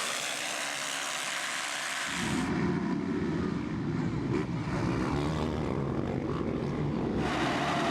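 Motocross bike engines running at race speed. About two seconds in the sound turns abruptly to a louder, deeper engine rumble, and near the end it brightens again.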